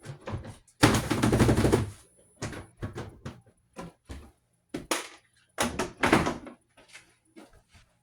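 Household handling noises: a string of knocks and thumps, with a louder, noisier sound lasting about a second, starting about a second in.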